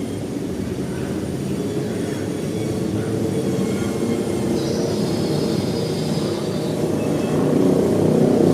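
Steady rumble of a motor vehicle's engine, growing louder near the end, with a faint thin high note lasting about two seconds in the middle.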